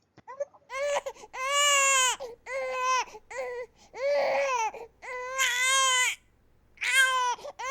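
A baby crying: a run of about seven high wails, each rising and falling in pitch, with short catches of breath between them.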